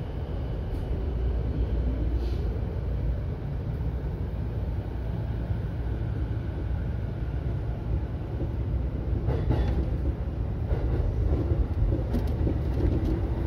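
Running noise of a JR E233-series electric train heard from inside the front cab: a steady low rumble of wheels on rail at speed, with a few sharp clicks in the second half.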